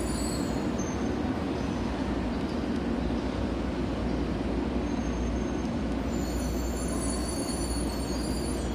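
Joetsu Shinkansen train departing the station: a steady rail rumble with a few faint high-pitched tones above it.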